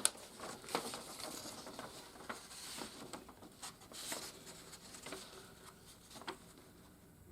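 Hands handling a plastic toy playset and a sticker sheet: scattered light clicks and taps with soft rustling, which die away near the end.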